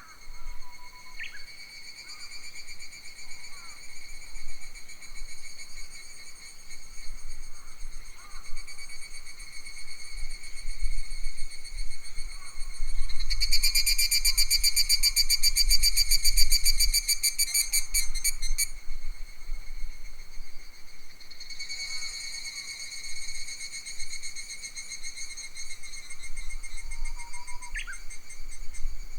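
Summer forest insects shrilling steadily on a high buzzing note, which breaks into a fast pulsing trill for several seconds midway. A bird gives a short falling call about a second in and again near the end, over a low rumble of wind on the microphone.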